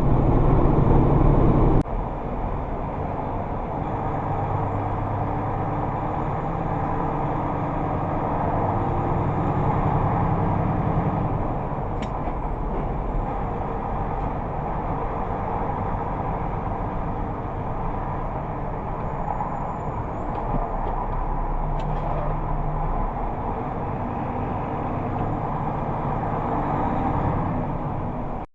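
Vehicle driving, heard from inside: a steady mix of engine and road noise. About two seconds in it cuts abruptly to a quieter stretch of the same kind of sound.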